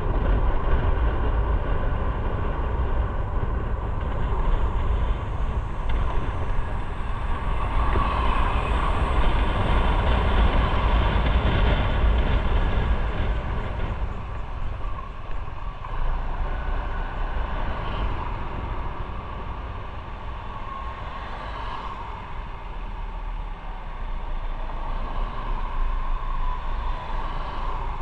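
Onboard sound of a motorcycle being ridden: wind rush and low rumble on the microphone over the running engine, easing off about halfway through and building again near the end.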